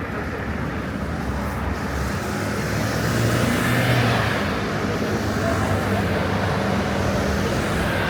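Busy street traffic: motor vehicle engines running, with a vehicle passing close that swells to its loudest about four seconds in.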